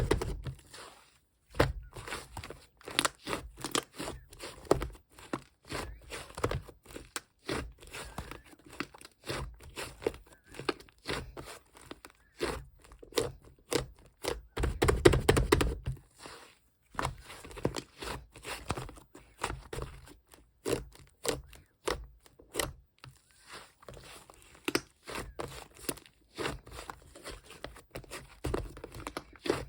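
Slime being squished and pressed by hand, making a rapid, irregular run of sticky clicks and pops, thickest and loudest about halfway through.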